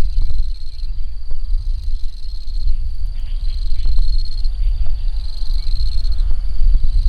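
Insects trilling in repeated high-pitched bouts about a second long, with fainter ribbed calls lower down, over a steady low rumble and scattered light taps.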